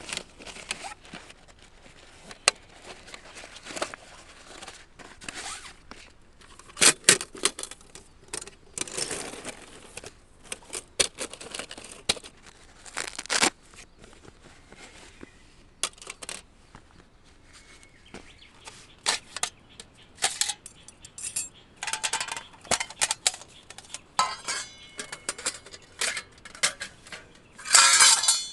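Camp gear being handled by hand: rustling with scattered sharp clicks and knocks, some of them short metallic clinks that ring briefly, busiest near the end.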